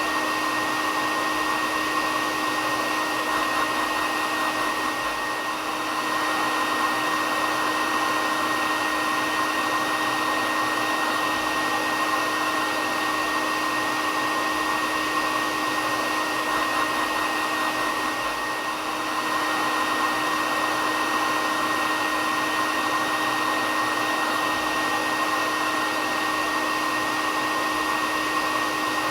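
Hair dryer running steadily: an even rushing hiss with a constant hum and a high whine in it, dipping slightly for a moment twice.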